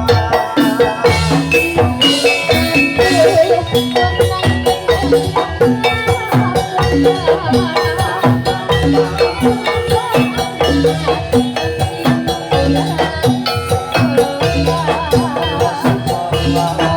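Javanese gamelan music for a jathilan dance, played loud through a PA sound system: bronze metallophones ring out a melody over kendang drums in a steady, even rhythm.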